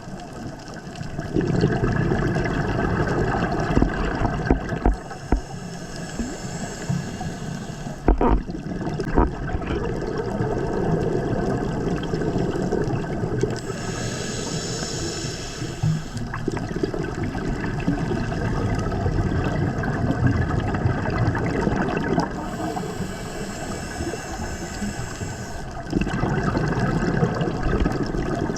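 Underwater sound of scuba breathing through a regulator: a steady gurgling wash of bubbles with a hissing stretch that comes back about every nine seconds, three times, in time with the breathing.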